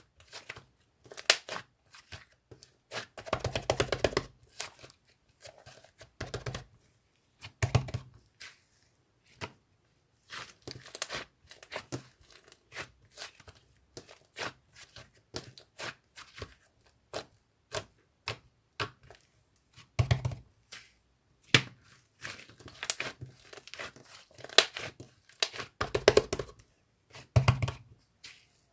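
Fluffy slime being squished and pressed by hand: irregular sticky pops and clicks, with a few longer crackling squishes.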